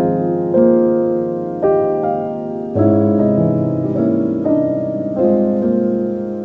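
Soft, slow piano music, gentle chords struck about once a second and left to ring.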